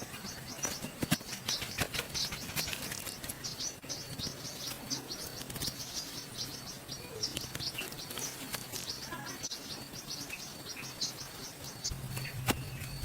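Forest ambience with small birds chirping: quick, high, repeated chirps throughout. There are scattered sharp clicks, most of them in the first few seconds and again near the end.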